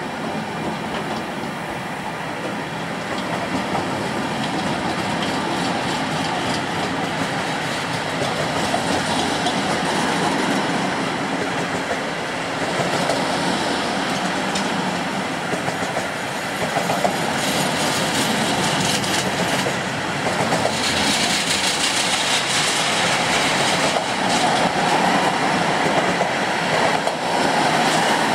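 Rollende Landstraße freight train of low-floor wagons carrying lorries, rolling past as it pulls away. Wheels rumble steadily on the rails with a clickety-clack over the rail joints, and the sound grows gradually louder as the train gathers speed.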